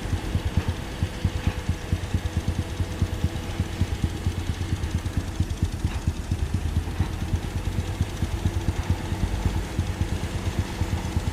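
Diesel engine of heavy earthmoving machinery running steadily, a low rapid pulsing.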